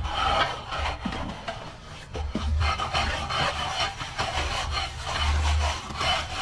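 Plastering trowel or float rubbing and scraping over a plastered wall in repeated strokes.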